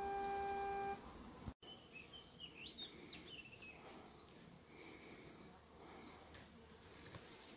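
A vehicle horn sounds one steady held toot that stops about a second in. After a brief break, birds chirp and call repeatedly in short high notes over a faint outdoor hiss.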